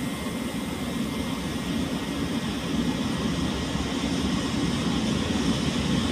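Freight train approaching along the track: a steady low rumble of the locomotive and wagons that grows slowly louder, heard in an enclosed underground station.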